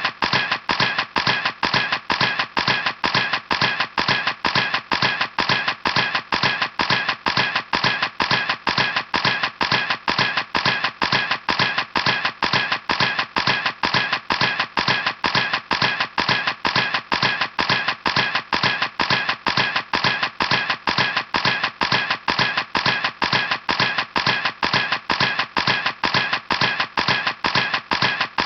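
Camera shutter clicking over and over in a steady, rapid series, about three clicks a second.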